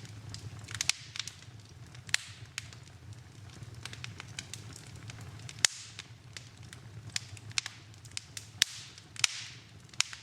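Wood fire in a fireplace crackling, with irregular sharp pops and snaps, the loudest about halfway through and again a little later. A few pops are followed by a brief hiss, over a steady low rumble.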